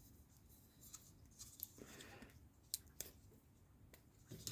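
Near silence with a few faint, short clicks and rustles from PTFE tape being handled and wrapped around a turned metal part.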